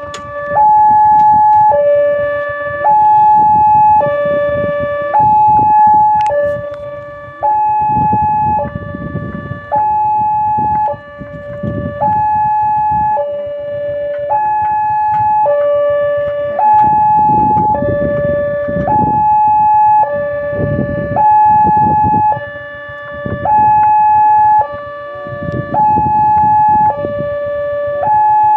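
Railway level-crossing warning alarm sounding a repeating two-tone electronic signal, a high and a low tone alternating roughly once a second, the signal that a train is approaching. A low rumbling noise swells and fades several times beneath it.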